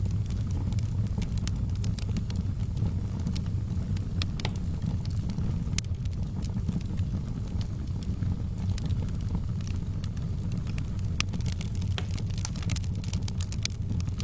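Fire burning in a fireplace, crackling with irregular sharp pops and snaps over a steady low rumble; the crackles come thicker toward the end.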